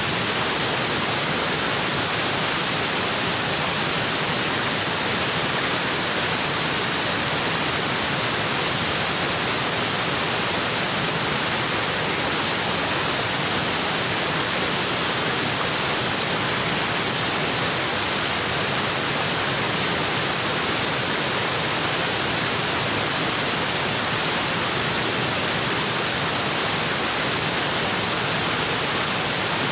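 Waterfall: water pouring and splashing onto rocks in a steady, unbroken rush.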